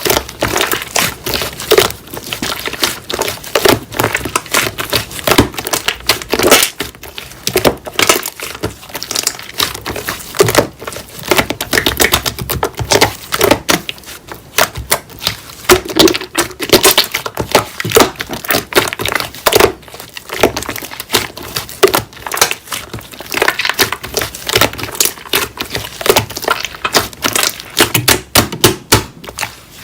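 Slime being squeezed and kneaded by hand, giving a fast, irregular run of crackling clicks and pops.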